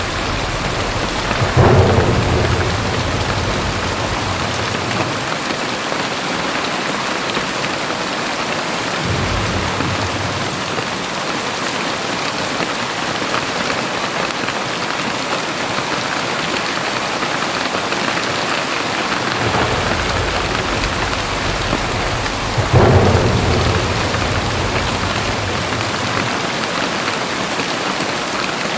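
Very heavy rain pouring steadily, with two sudden claps of thunder rumbling on for a few seconds, one about two seconds in and another about three-quarters of the way through.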